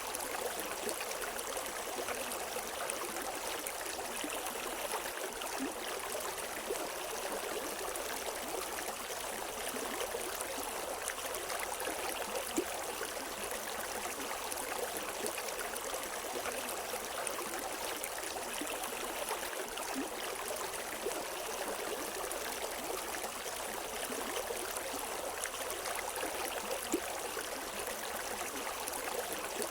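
River water flowing steadily over rocks, a continuous rushing and gurgling with faint splashes here and there.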